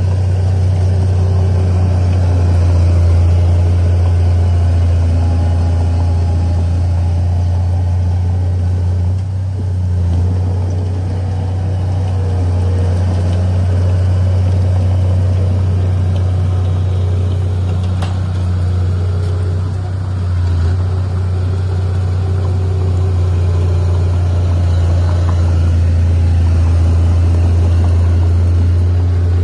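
Heavy earthmoving machinery's diesel engine running steadily with a deep, constant low drone, easing slightly twice.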